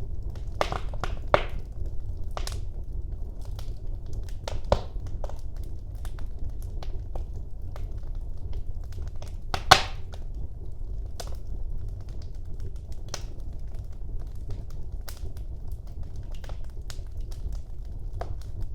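Wood fire burning in a fireplace: a steady low rumble of the flames under irregular crackles and pops, with one loud pop about ten seconds in.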